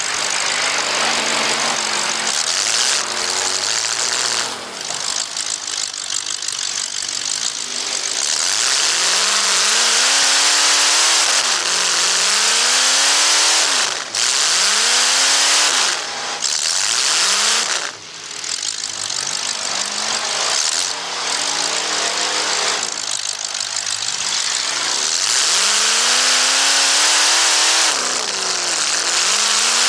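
Demolition-derby race car engines revving hard, the pitch climbing and falling again and again over a loud roar, with brief drops about 14, 16 and 18 seconds in.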